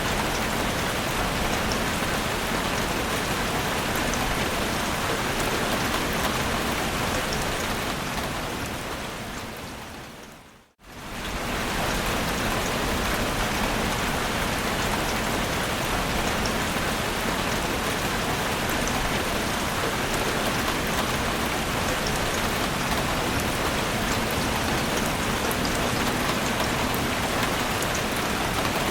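Heavy rain falling steadily in a dense, even hiss. About ten seconds in, it fades down to silence over a couple of seconds and then swells quickly back to full level.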